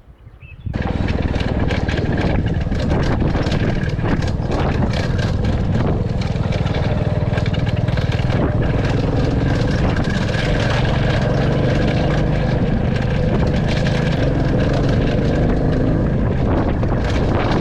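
Royal Enfield Classic 350 single-cylinder motorcycle engine running steadily on the move. It cuts in abruptly under a second in.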